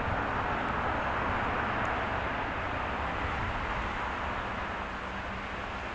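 A passing road vehicle's steady rushing noise, slowly fading as it moves away.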